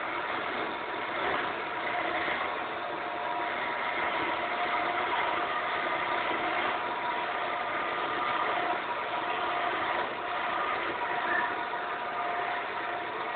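Woodturning lathe running steadily: a constant mechanical noise with a few held whining tones.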